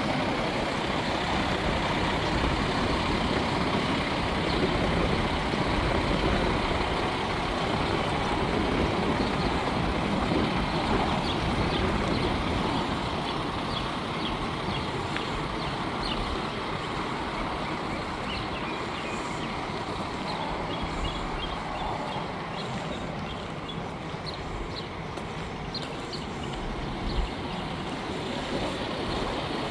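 Peterbilt 579's Paccar MX-13 diesel engine idling steadily.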